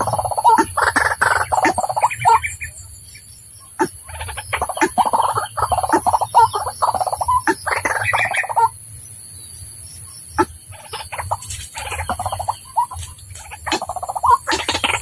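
White-breasted waterhen calling: rapid, harsh croaking calls in three long bouts with short pauses between them.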